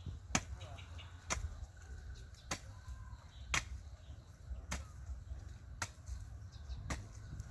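A hoe chopping into soil about once a second, seven even strikes, as earth is dug up to build a sweet potato heap.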